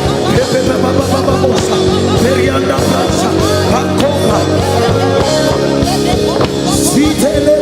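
Worship music from a church band, with steady instrument tones and voices singing or praying over it.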